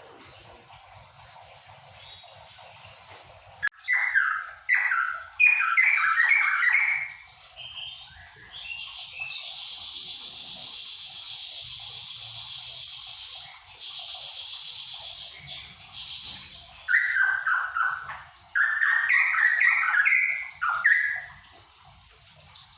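Cucak pantai songbird singing in two loud runs of quick, rapidly repeated notes, with a steady high hiss in the pause between them.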